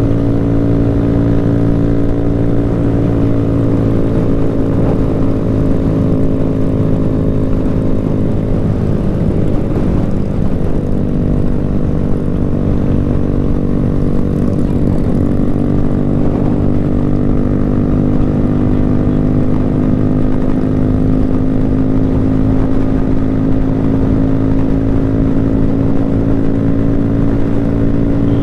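Motorcycle engine running steadily at an even speed. About ten seconds in, its pitch wavers briefly, and it creeps slowly higher toward the end.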